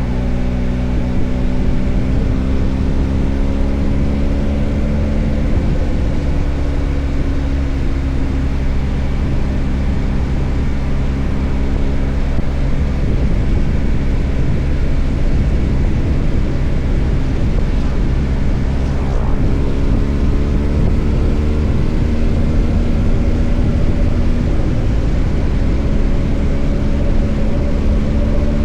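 BMW R1250 GS Adventure's boxer-twin engine under riding, with heavy wind and road noise. The engine note falls as the bike slows over the first few seconds, runs mostly as a steady rush of noise through the middle, and climbs in pitch as it accelerates over the last several seconds.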